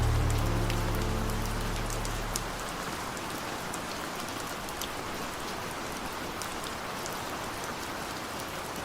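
Steady rain with scattered sharp drop taps. A low sustained musical chord fades out over the first two or three seconds.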